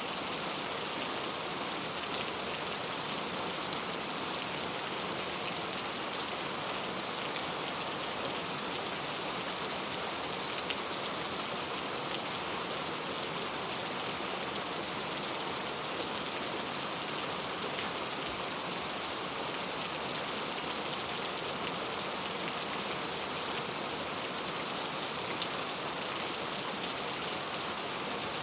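Heavy rain falling steadily, a dense even hiss full of fine drop patter.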